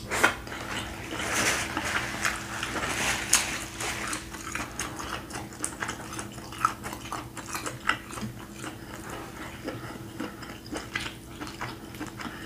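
Close-miked eating sounds: chewing and wet mouth smacks, with a scatter of sharp little clicks. A faint steady low hum runs underneath.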